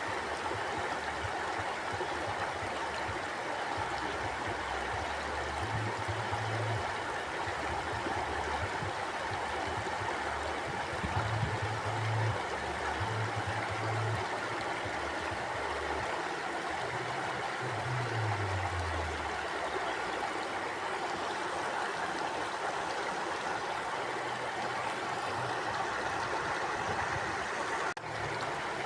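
Flowing river water: a steady, even rush, with a low rumble coming and going underneath. The sound briefly dips near the end.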